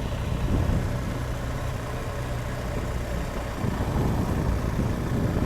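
BMW R1200GS Adventure's boxer-twin engine running steadily under way, with a steady rush of wind and road noise.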